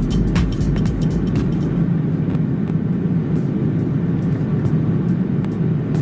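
Steady low rumble of an Airbus A330-300 in flight, heard from inside the cabin, with a few sharp clicks or rattles in the first second.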